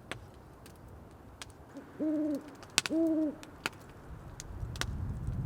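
An owl hooting twice, two short even hoots about a second apart, over scattered sharp crackling snaps. A low rumble builds near the end.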